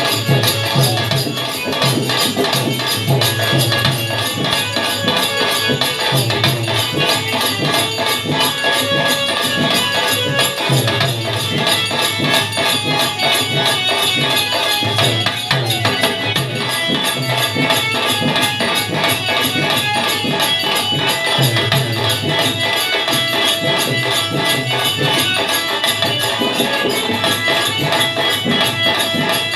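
Birha folk ensemble playing instrumental music: a steady drum beat under jingling, shaker-like percussion and sustained melodic lines.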